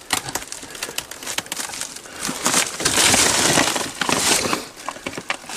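Irregular crunching and crackling of fire debris being disturbed, with a louder rustling stretch in the middle.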